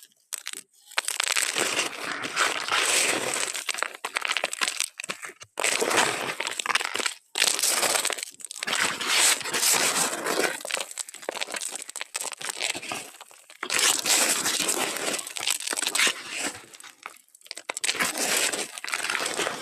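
Something dry and crunchy being crushed and crumpled, a dense crackling crunch that comes in bouts of one to three seconds with brief pauses between them.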